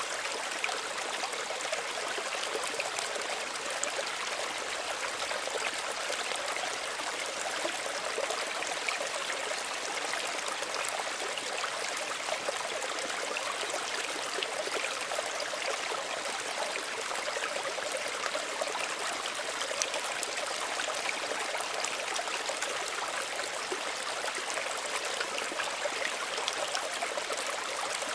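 Small stream running over stones: a steady, even babble and trickle of shallow running water.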